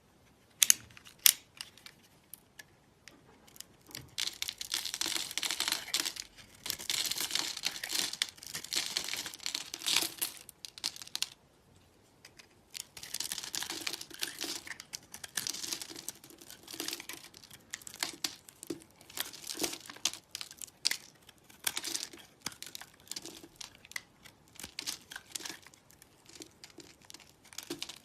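Dry soap crunching and crumbling as it is worked, in long runs of crackly strokes with a pause in the middle, then shorter separate crunches. A few sharp clicks sound about a second in.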